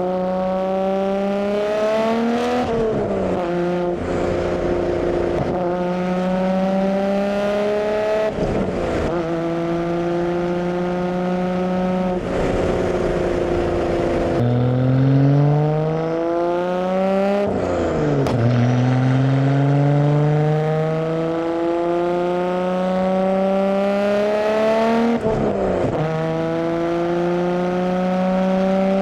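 Exhaust of a Nissan Skyline R32 GT-R's twin-turbo straight-six, picked up by a mic at the rear beside the tailpipe, as the car is driven through the gears. The engine note climbs steadily in each gear and drops sharply at each shift, about seven times.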